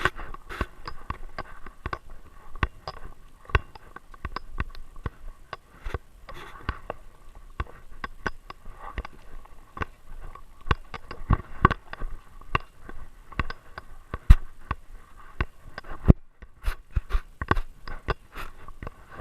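Irregular knocks, clicks and scrapes from a GoPro camera mounted on a moving dog, jostling with each step and movement. The sound cuts out completely for a moment about three-quarters of the way through.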